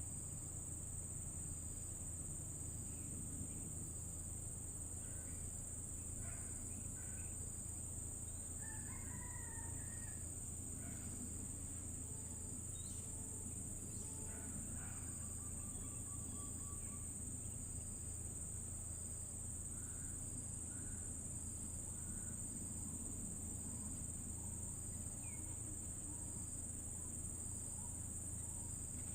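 Steady high-pitched insect chorus, crickets or similar, over a low steady hum, with faint scattered bird calls coming and going in the middle of the stretch.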